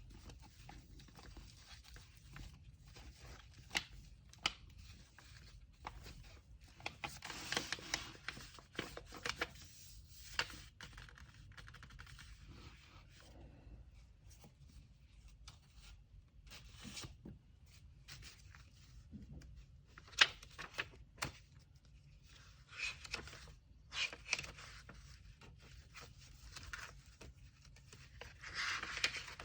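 Orders being packed by hand: paper and tape rustling and tearing in short stretches, with scattered light taps and clicks over a faint low hum.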